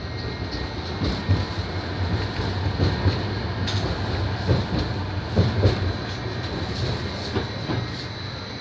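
Tram running, heard from inside the car: a steady low rumble with a faint steady high whine, and wheels knocking over rail joints several times around the middle.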